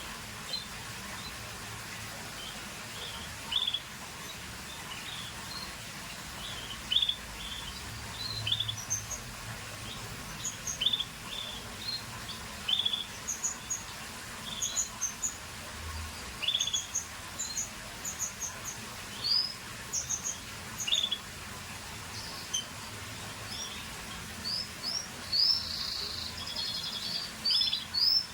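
Scotch Fancy canary chirping: short, separate high notes, scattered irregularly, with a brief rapid trill about 25 seconds in, over a steady background hiss.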